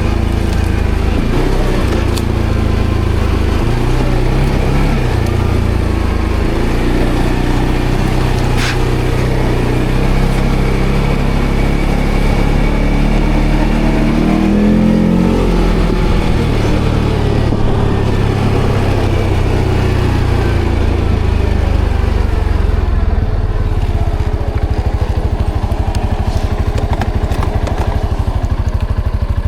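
ATV engine running under way off-road, its pitch rising and falling about halfway through as the throttle changes, then settling into an even pulsing run near the end.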